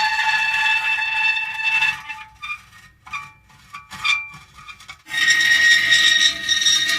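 Metal creaking: a long, drawn-out creak with several high squealing tones, breaking into short separate squeaks in the middle. Another long creak starts abruptly about five seconds in.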